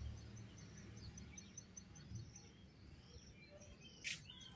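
Faint birdsong in a quiet garden: small chirps, with a high note repeating about three times a second. A short, sharp sound stands out about four seconds in.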